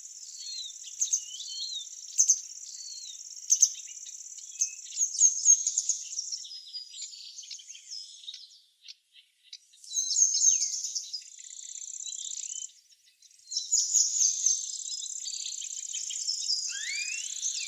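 Songbirds chirping and calling in short, sharp notes and sweeps over a steady high-pitched trill. The sound drops out briefly about eight seconds in and again around thirteen seconds.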